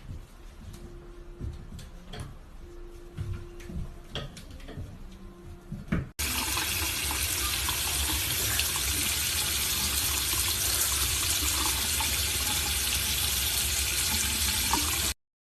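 Water running steadily in a loud, even rush that starts suddenly about six seconds in, after a few soft knocks, and cuts off abruptly near the end.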